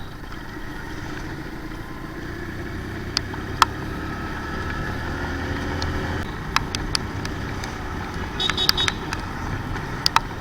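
Motorcycle engine and road noise during a ride, a steady rumble with scattered sharp ticks. Near the end comes a quick run of short high-pitched beeps.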